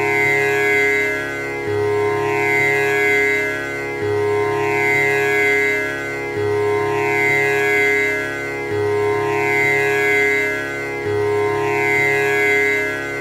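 Tanpura drone: its strings are plucked in a steady repeating cycle that comes round about every two and a half seconds, each round opening on the low string, with rich overtones ringing on between plucks.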